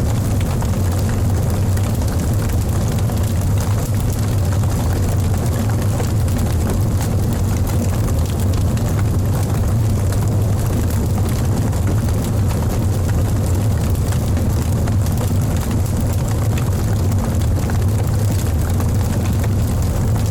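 Wood fire burning in a fireplace: a steady low rumble of flames with scattered small crackles.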